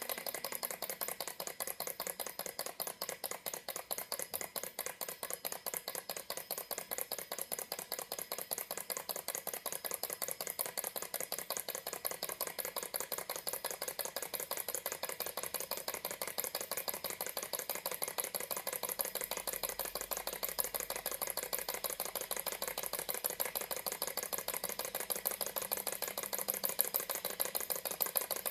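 Model Stirling engine running, its moving parts giving off a fast, steady, even rattling tick.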